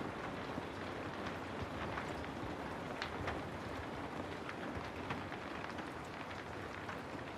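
Steady rain falling on a hard surface, a dense hiss dotted with the ticks of separate drops.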